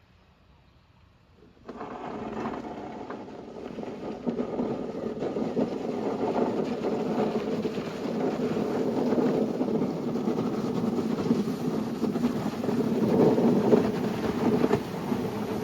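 Engine of a snow-clearing machine running steadily with a rough mechanical clatter, starting suddenly just under two seconds in after near silence.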